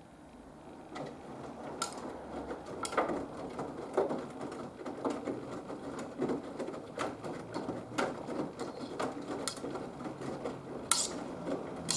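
Haier HW120 front-loading washing machine drum starting to turn about a second in, with wet laundry tumbling and sloshing and irregular clicks and knocks against the drum.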